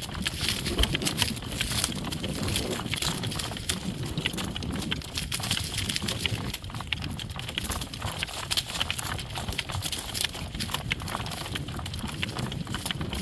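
Hooves of a team of driving horses clip-clopping over pasture ground, a dense run of clicks over a steady low rumble.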